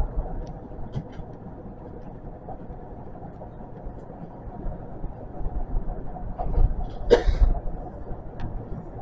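Osaka Metro 400 series electric train running on track, heard from behind the driver's cab: a steady rumble of wheels on rail. Some low thumps come about six and a half seconds in, along with one short, harsh burst of sound.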